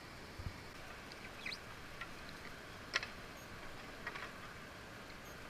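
Quiet river ambience: a faint, even rush of moving water with a few small clicks and drips, one sharper click about three seconds in.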